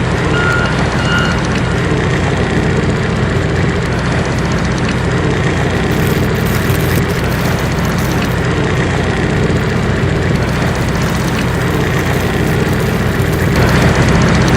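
A large vehicle engine running steadily, with two short beeps about half a second and a second in. It gets a little louder near the end.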